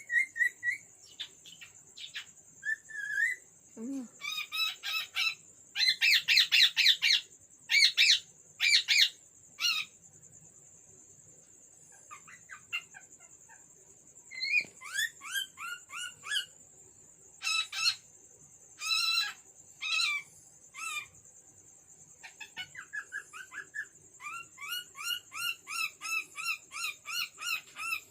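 Cockatiel whistling and calling: runs of short chirps and harsh, squawky calls in bursts with pauses between them, and quick repeated chirps near the end.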